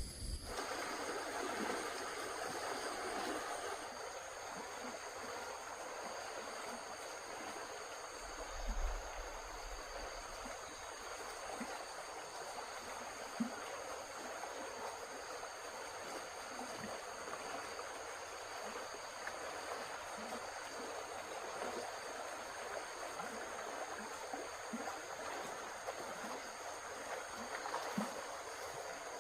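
Running water, steady and continuous, with a high steady insect trill over it and a few soft knocks, the loudest about nine seconds in.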